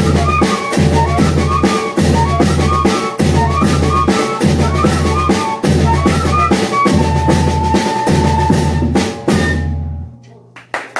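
Banda de pífano playing an instrumental passage: a fife melody of quick notes over a steady zabumba bass-drum beat and snare. The music ends a little before the close.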